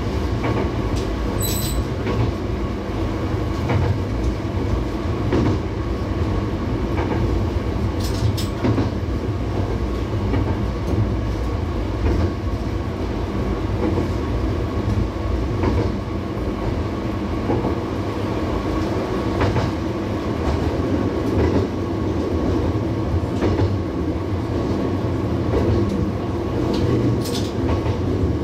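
Diesel railcar running along the track, heard from inside the driver's cab: a steady engine and wheel rumble with a few brief sharp clicks and squeaks from the wheels on the rails.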